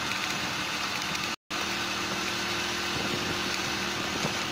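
Hero Splendor Plus i3s 100cc single-cylinder motorcycle engine running steadily while riding in gear, with wind and road noise. The sound cuts out completely for a moment about a second and a half in.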